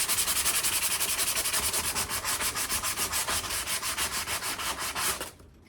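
Hand sanding an old steel axe head with 240-grit sandpaper: fast back-and-forth rasping strokes, about eight or nine a second, stopping suddenly near the end.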